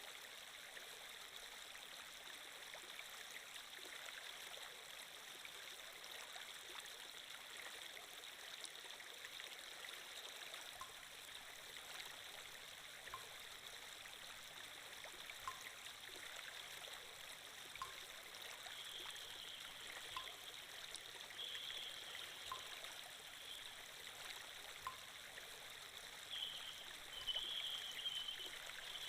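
Water-flow ambience: a stream running steadily, with faint short ticks about every two and a half seconds.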